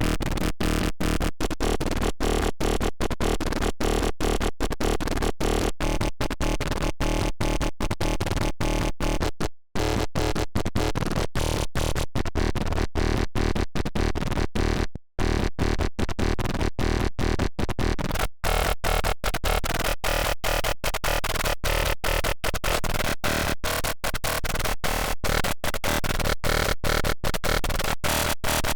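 Serum software synthesizer playing a dense, distorted wavetable patch in rapid repeated notes, about three to four a second. It drops out briefly twice, about a third of the way and halfway through, and the tone of the patch changes about two-thirds of the way through.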